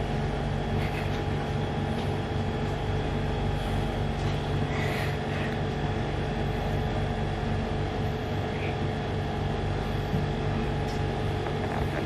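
Steady mechanical drone from a running engine or motor: a strong low hum with a few steady tones above it, unchanging throughout.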